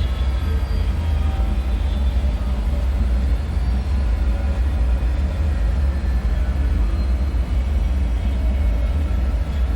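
Dark ambient bunker soundscape: a deep, steady low rumble with faint held tones drifting above it.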